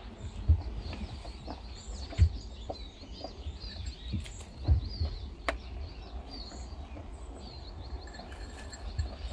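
Small birds chirping in short repeated calls, with a few low thumps and one sharp click about halfway through.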